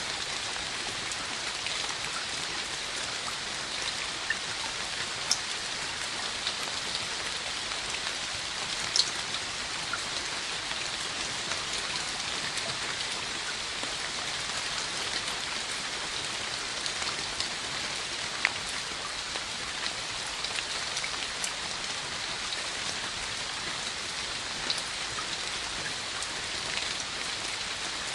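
Steady rain falling on a hard surface: an even hiss with a few sharper single drops standing out here and there.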